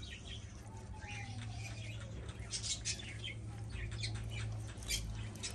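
Scattered short bird chirps over a steady low hum, with a faint falling whistle about a second in.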